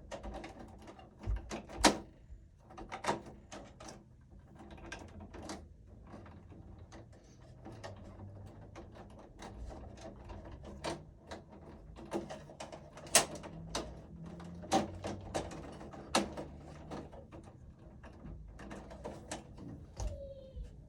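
Irregular metal clicks and knocks of hands working the steel cover of a residential electrical panel into place, with a few sharper clanks about 2, 13, 15 and 16 seconds in.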